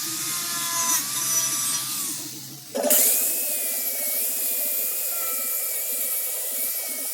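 Power tool running on metal. For the first few seconds its whine falls in pitch as it winds down. Then, about three seconds in, another stretch starts with a steady high whine that wavers as the tool bears on the work.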